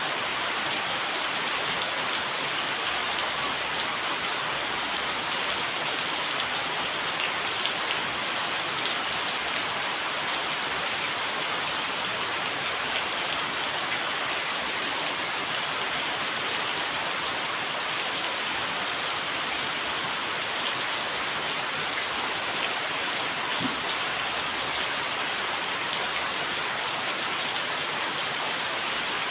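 Steady rain falling, an even hiss of drops with a few faint individual ticks and no thunder.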